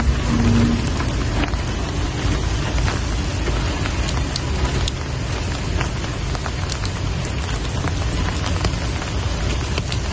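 Steady rain falling, with many separate drops ticking over an even hiss and a low rumble underneath.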